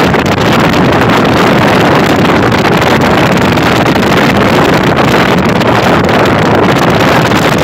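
Loud, steady rush of wind buffeting the microphone on a moving vehicle, with the rumble of travel beneath it.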